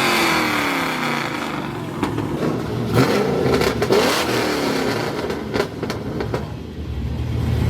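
Performance car engines revving and accelerating, the pitch falling early, then rising and falling again, with a few sharp cracks in the middle; a steadier, lower engine note takes over near the end.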